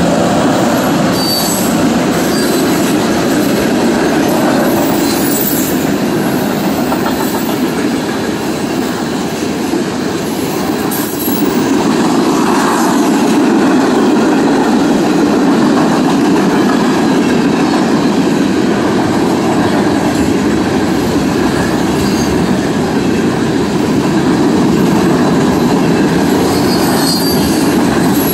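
Freight cars of a passing freight train, covered hoppers and boxcars, rolling by at speed: a loud, steady rumble of steel wheels on the rails. Brief high-pitched wheel squeals come about a second in and again near the end.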